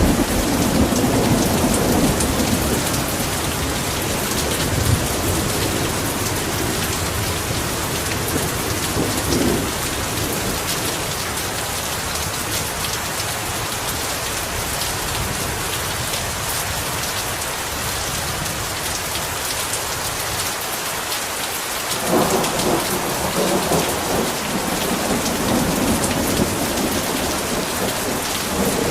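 Heavy rain falling in a steady hiss, with low thunder rumbling at the start and again from about 22 seconds in.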